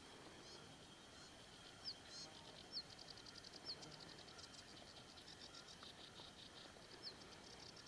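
Faint birdsong: a few short rising chirps about a second apart and a fast run of ticking notes, over quiet open-air background.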